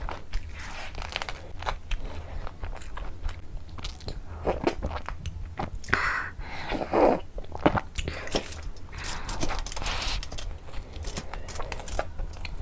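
Close-miked crunching and chewing of crunchy food, with many sharp crackling clicks, and a few louder gulps of a drink about halfway through.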